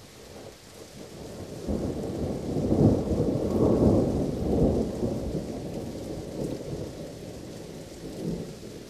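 A long, deep roll of thunder over steady rain. It swells about two seconds in, is loudest around the middle, then slowly rumbles away, with a short extra rumble near the end.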